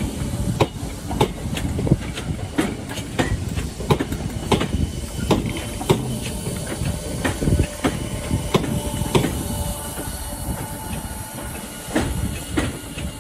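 Train rolling past, its wheels clicking unevenly over rail joints about twice a second over a low rumble, with a faint steady whine above.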